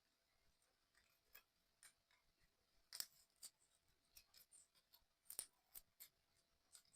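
Faint, scattered clicks and taps of small model-kit parts being handled and fitted together, two of them louder about three and five and a half seconds in.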